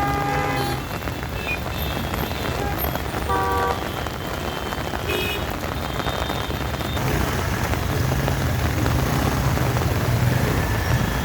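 Rain falling steadily over jammed street traffic, with vehicle horns honking briefly at the start and about three and a half seconds in. From about seven seconds in, a low engine hum of idling vehicles joins the rain.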